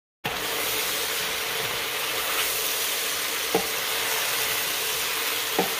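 Sliced red potatoes, onion and rope sausage sizzling steadily in a Ninja Foodi pot on sauté mode as they are stirred with a wooden spoon, with a couple of light knocks from the spoon. The sizzling cuts in sharply just after the start.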